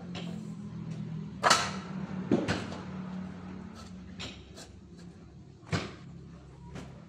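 Sawmill engine idling steadily, with several sharp knocks over it; the loudest comes about a second and a half in.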